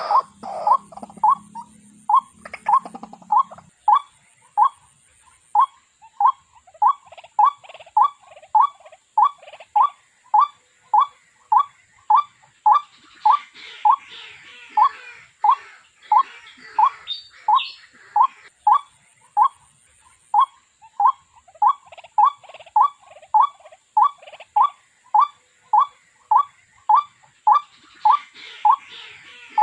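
Waterhen calling: one short note repeated over and over at a steady, even pace, about one and a half notes a second.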